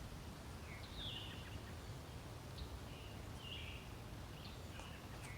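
Faint birds chirping over a low steady background hum, with a handful of short calls, including a falling chirp about a second in and another about three and a half seconds in.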